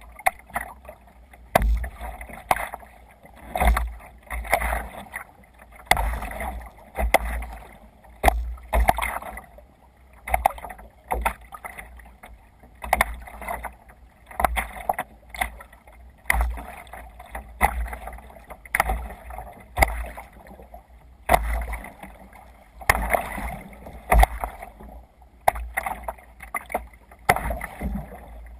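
Water splashing and sloshing against a sea kayak's hull as it moves through waves, in surges roughly every second.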